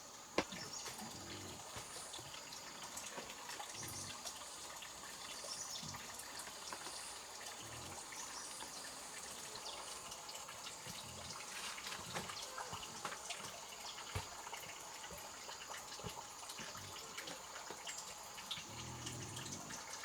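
Water trickling and dripping, with a steady high insect drone and soft low thuds every second or two.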